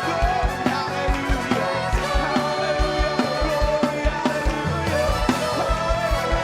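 Choir singing an upbeat gospel song over a live band, with a steady kick-drum beat and bass.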